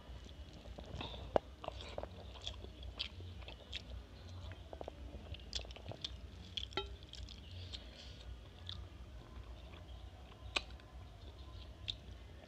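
Close-miked chewing of a mouthful of rice and curry eaten by hand, with small irregular wet clicks and smacks, and fingers mixing rice on a steel plate, over a low steady hum.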